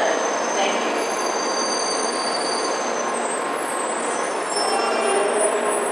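700 series Rail Star Shinkansen pulling slowly into the platform under braking, a steady rush of wheels on rail with thin, high-pitched squeals drifting over it.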